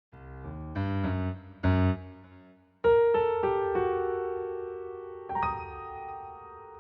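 Piano music: a few short low chords, then a brighter chord about three seconds in that rings and slowly fades, with another chord struck a little after five seconds.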